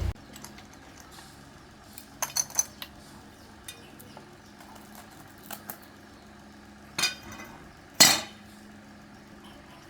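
Metal tools and parts clinking and knocking as they are handled. A few light clinks come about two seconds in, scattered ones follow, and two louder clanks come near the end, over a faint steady hum.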